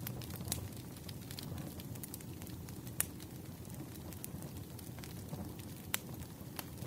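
Wood fire crackling: a steady low rumble dotted with small snaps, and sharper pops about half a second, three seconds and six seconds in.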